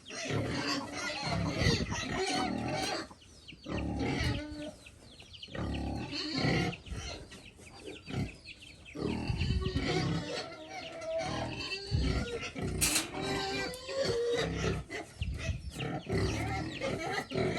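Pigs grunting and eating at feeding time, a run of short, irregular grunts and feeding noises.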